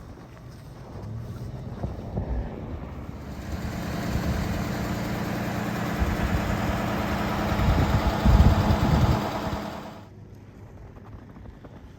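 A vehicle engine running, with a rushing noise that builds over several seconds and cuts off abruptly about ten seconds in.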